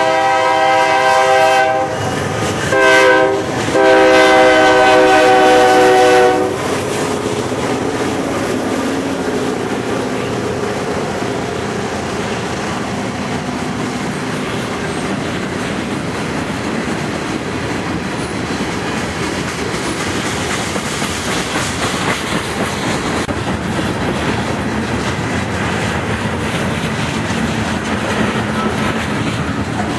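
Norfolk Southern freight locomotive's horn sounding three times: a blast that stops about a second and a half in, a short one around three seconds, and a longer one ending about six seconds in. The rolling rumble and clatter of the freight cars passing then goes on steadily.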